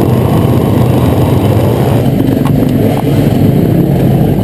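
On-board sound of a 140cc pit bike's single-cylinder four-stroke engine running at a fairly steady pitch under way.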